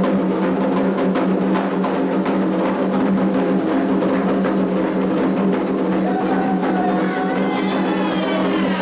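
Candomblé atabaque drums playing a fast, driving rhythm for Iansã, with rapid strokes throughout. Singing voices come in about six seconds in.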